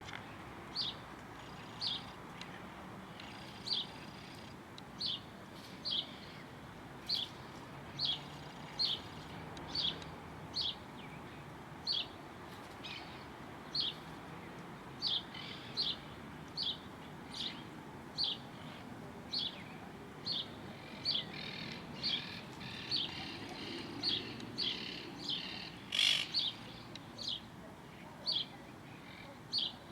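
A bird chirping a short, high call over and over, about once a second, over a steady background hiss. Near the end comes one louder, sharper call.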